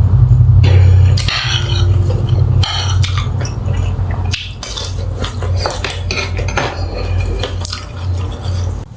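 Cutlery and dishes clinking and knocking against each other, over a steady low hum that is loudest for about the first second. The sound cuts off suddenly near the end.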